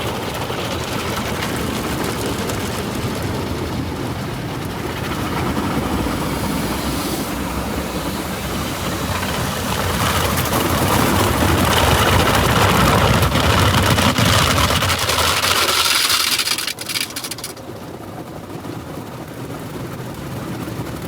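Automatic tunnel car wash equipment working over the car, heard from inside the cabin: a loud, even rushing noise that grows louder through the middle and drops off suddenly about three-quarters of the way through.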